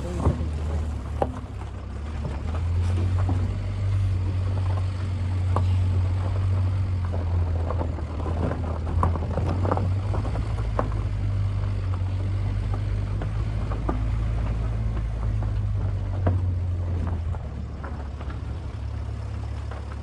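Vehicle driving on a rough unpaved mountain road: a steady low engine drone that grows louder a few seconds in and eases near the end, with scattered knocks and rattles.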